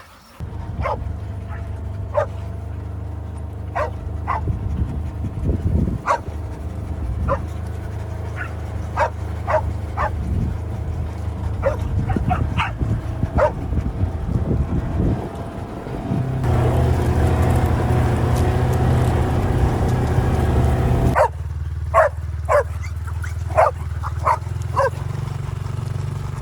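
Dogs barking and yipping in many short calls over a vehicle engine running steadily. The engine gets louder for about five seconds past the middle, then settles back.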